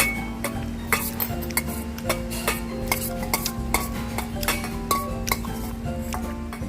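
A spoon clinking and scraping against a bowl in quick, repeated strokes as food is stirred, some strikes ringing briefly, over background music.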